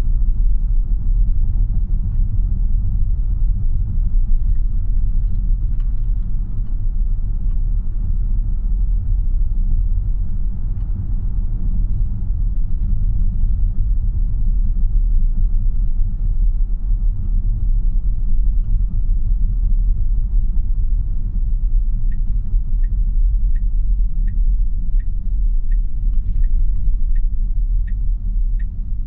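Steady low road and tyre noise inside the cabin of a 2026 Tesla Model Y AWD, an electric car with no engine note. About three-quarters of the way through, a turn-signal indicator starts ticking evenly, about one and a half ticks a second.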